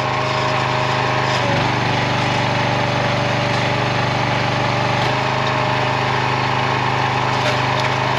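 Small gas engine of a RuggedMade log splitter running steadily, its tone shifting slightly about a second and a half in and again around five seconds.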